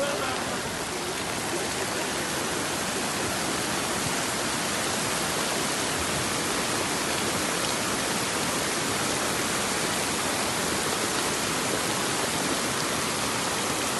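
Heavy rain pouring down with running water: a steady, even rush with no break.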